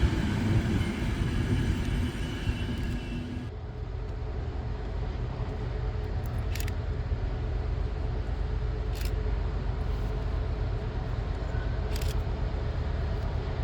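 A train running past with steady whining tones from its drive, cut off abruptly about three and a half seconds in. After that a steady low rumble, with a few faint clicks.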